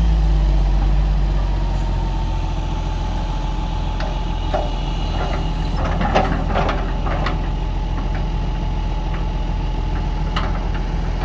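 Heavy diesel engine running steadily at idle, with a few scattered metallic clanks and knocks midway and once near the end.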